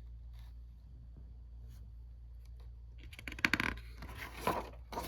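Paper rustling as a picture book's page is handled and turned, a quick cluster of rustles a little past halfway, over a steady low hum.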